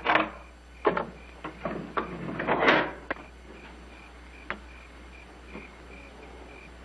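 A few sharp knocks and clatters over the first three seconds or so, and one more about four and a half seconds in, like handled objects and movement. After that, a faint high tone pulses about twice a second over a steady low background.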